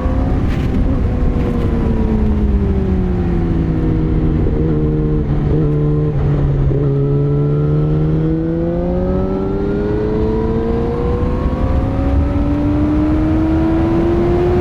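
Yamaha YZF-R6 (RJ27) inline-four engine on the road: revs fall for about five seconds, break briefly a few times around the middle, then climb steadily through the rest as the bike accelerates. Wind rush throughout.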